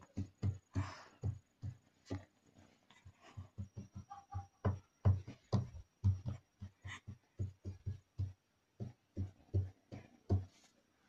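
Fingers tapping in a quick, uneven series of dull taps, about three or four a second.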